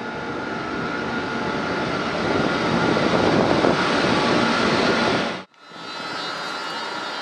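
Rushing rail noise that builds steadily for several seconds, then cuts off abruptly. After the cut, an SNCF BB 26000 electric locomotive hauling Corail coaches runs in along the platform, a steady running noise with a faint high whine.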